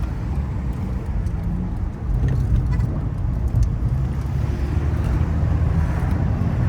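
Car driving along: steady low engine and road rumble heard from inside the cabin, a little louder from about two seconds in.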